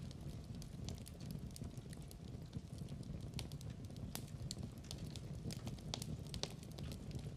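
Fireplace crackling: irregular sharp pops and snaps of burning wood over a low, steady rumble of the fire.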